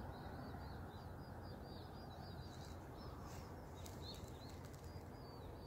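Small bird singing, a quick run of short high chirping notes repeated steadily, over a steady low background hum of outdoor air.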